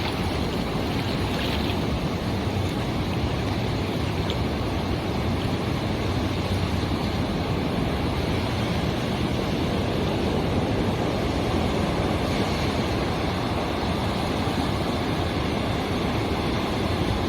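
Ocean surf washing onto a beach: a steady, unbroken rush of waves.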